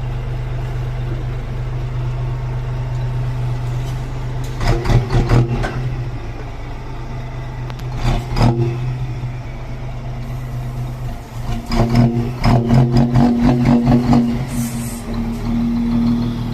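Scania truck's diesel engine idling, then pulling away as the tractor unit uncouples from its trailer, with bursts of rapid mechanical clatter three times and a brief air hiss near the end.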